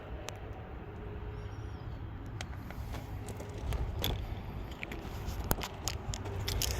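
Outdoor background noise: a steady low rumble with scattered light clicks and ticks, and a brief faint high chirp about a second and a half in.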